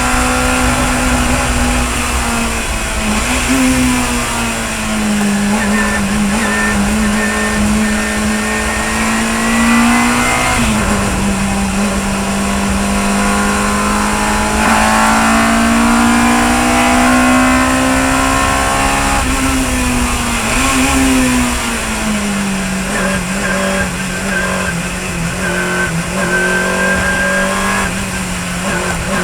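Chevron B19 sports-racing car's engine running hard at racing speed, its pitch climbing under acceleration and dropping several times as the car shifts gear and slows for corners.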